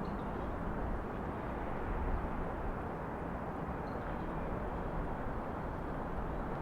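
Steady low hum of distant city traffic, with a few faint short high chirps on top.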